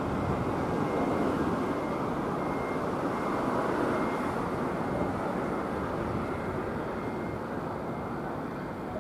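Hanshin Railway electric train running on the line, an even rolling noise that is strongest over the first few seconds and slowly fades as the train moves off.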